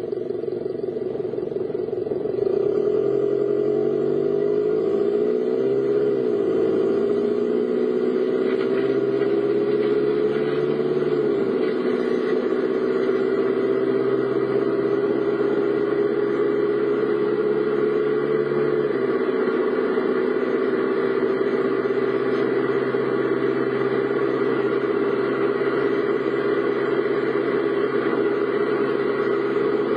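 Car driving, with engine and road noise. The engine pitch rises a few seconds in, then holds fairly steady, easing down slightly around the middle and stepping down again later.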